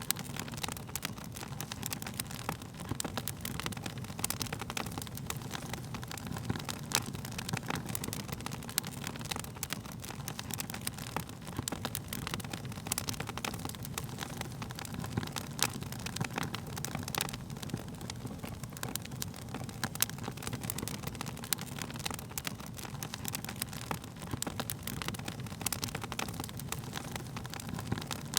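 Wood fire burning steadily, with a low rumble of the flames and frequent sharp crackles and pops of the burning wood.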